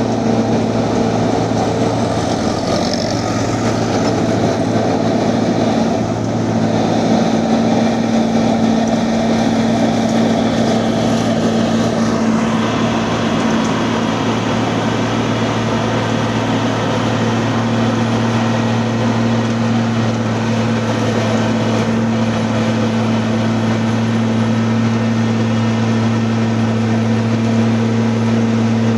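Engine of road-works machinery running at an even, steady speed: a constant low hum with no change in pitch.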